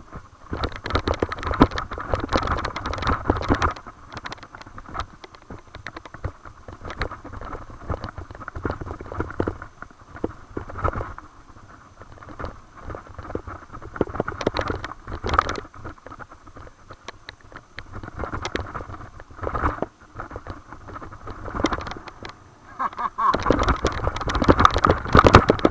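Mountain bike riding down a dirt singletrack trail: tyres rolling over rough ground, with the chain and frame rattling over bumps. The noise comes in uneven swells, loudest at the start and again near the end.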